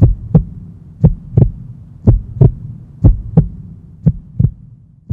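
Heartbeat sound effect: deep paired lub-dub thumps, about one pair a second, growing fainter toward the end.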